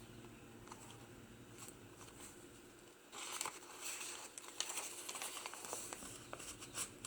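Paper rustling and light clicks as the pages and tags of a handmade paper journal are handled. Faint for the first three seconds or so, then a few seconds of crinkly rustling.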